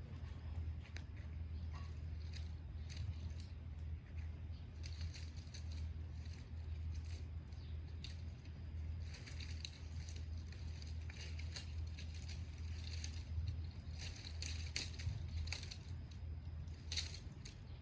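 Small wood bonfire crackling, with irregular sharp pops and ticks over a steady low rumble.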